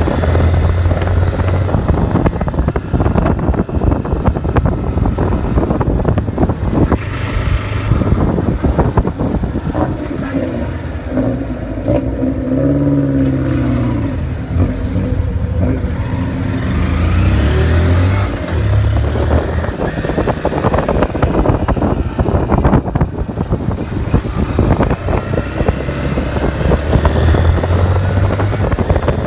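Honda CG 160 Start's single-cylinder engine running while the motorcycle is ridden, with wind buffeting the microphone. The engine note rises and falls about halfway through.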